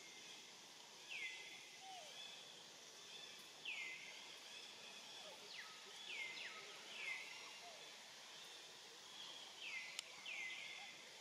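Faint forest background: a bird repeats a short down-slurred call every two to three seconds, twice in quick succession near the end, over a steady high hiss.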